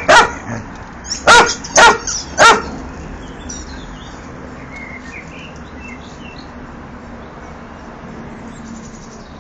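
A dog barking about four times in quick succession, loud and sharp, in the first two and a half seconds, then stopping.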